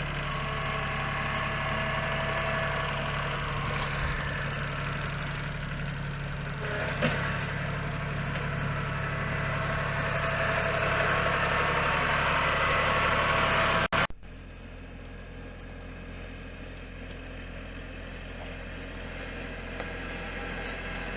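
Kubota tractor's diesel engine running steadily, with a single knock about seven seconds in. About halfway through, the sound cuts abruptly to a quieter, duller take of the engine still running.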